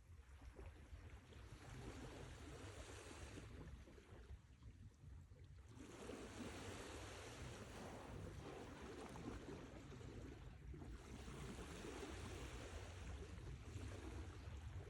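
Sea waves washing ashore, a steady rushing that swells and ebbs, with a lull about four seconds in before the next surge about six seconds in.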